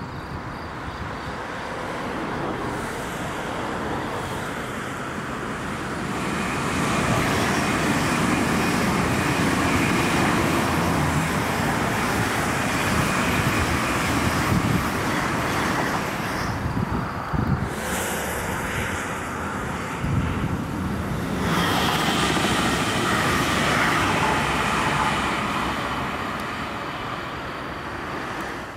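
DB class 412 ICE 4 high-speed train passing at speed, a rushing noise of wheels on rails and air that builds over several seconds, dips briefly about two-thirds of the way through, swells again and then fades away.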